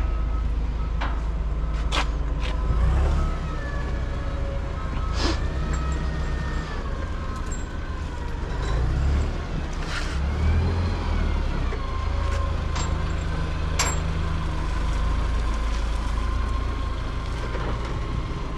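A large diesel engine idling with a steady low rumble, broken by a few sharp metallic clanks.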